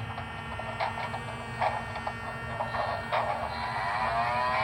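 Onboard sound system of a Broadway Limited Imports model diesel locomotive playing a diesel engine running, with a steady hum and small scattered clicks; the engine note rises in pitch near the end.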